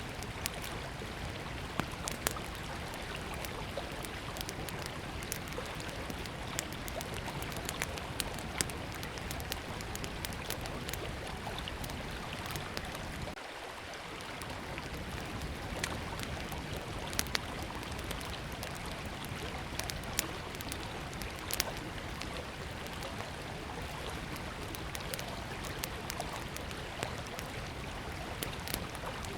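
A small wood campfire crackling, with frequent sharp pops and snaps, over the steady rush of river water.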